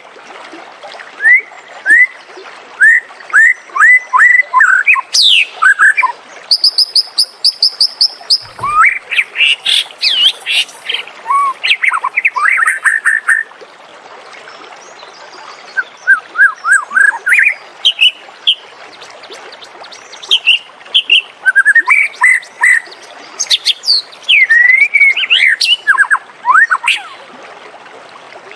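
White-rumped shama singing: a varied run of clear whistles, quick slurred notes and fast rattling series, delivered in short phrases with brief pauses between them.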